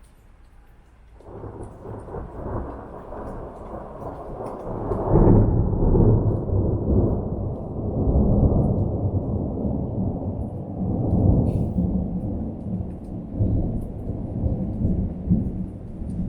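Rolling thunder: a low rumble begins about a second in, swells to its loudest a few seconds later and keeps rolling and pulsing to the end.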